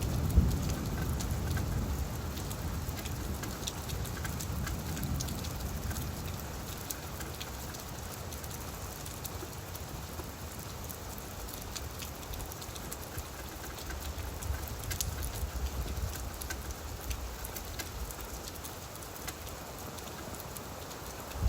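Steady rain falling on leaves, with scattered sharp drop ticks through the hiss. A low rumble of thunder dies away over the first couple of seconds.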